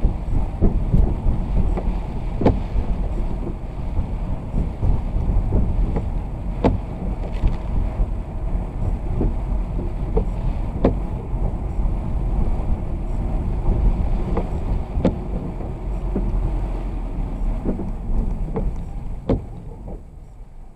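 Vehicle driving in the rain: a steady low road-and-motor rumble with scattered sharp taps every second or so. The rumble drops off near the end.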